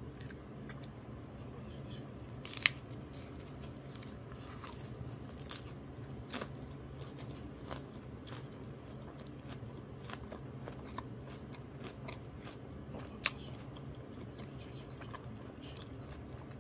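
Close-up chewing of a perilla-leaf wrap of grilled pork trotters: many small wet mouth clicks throughout, with two sharp clicks about three seconds and thirteen seconds in, over a steady low hum.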